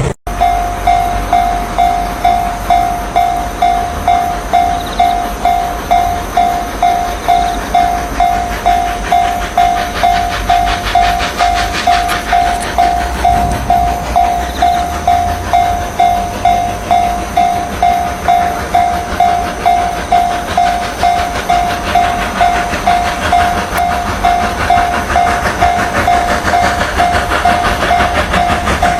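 A warning bell ringing evenly about twice a second, one clear tone per ring, over the steady running noise of a train on the rails, which grows louder near the end.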